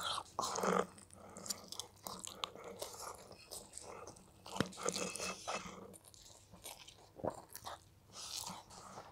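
A person chewing a big mouthful of cheesy pasta: faint, irregular mouth clicks and smacks.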